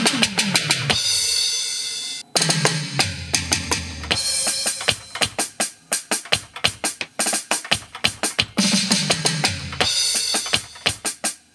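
Roland Octapad SPD-30 digital percussion pad playing custom-programmed drum and percussion presets: rapid drum hits over a pitched bass tone, with a cymbal-like wash about a second in that cuts off abruptly a second later.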